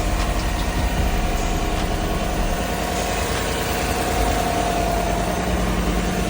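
Engine of a 2018 Chevrolet Silverado 1500 pickup idling steadily.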